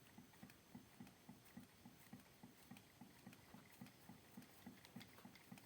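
Freshly assembled engine crankshaft turned by hand, giving faint, evenly spaced knocks about three or four a second. The owner takes them for play somewhere in the assembly.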